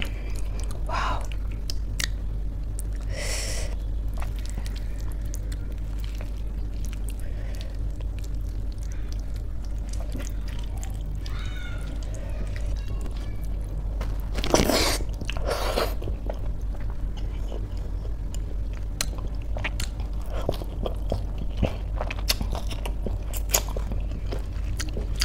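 Close-up eating sounds: wet chewing with many small mouth clicks and crackles as crispy fried pakoras are eaten with khichdi. Louder crunchy bites come about three seconds in and twice in quick succession around the middle. A steady low hum runs underneath.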